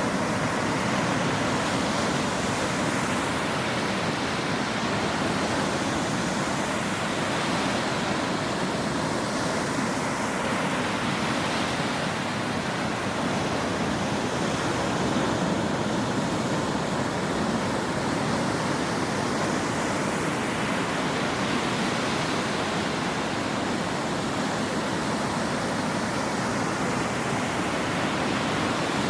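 Ocean waves breaking on a shore: a steady wash of surf noise, with faint swells in the hiss every several seconds as waves come in.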